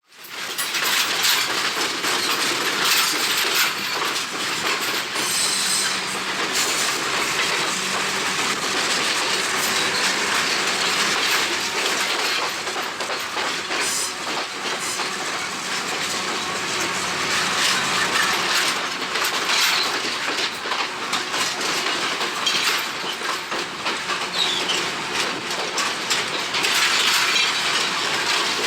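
Passenger train running, heard from aboard a carriage: a steady rattle and rumble of the wheels on the track with scattered clicks and knocks, and wind rushing over the microphone.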